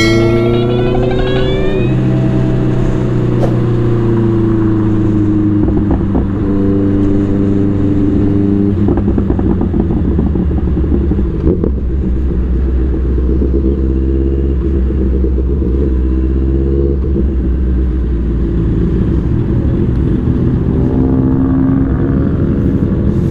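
Big-bike motorcycle engine running on the move, its note rising and falling as the bike speeds up and slows down, shifting pitch several times.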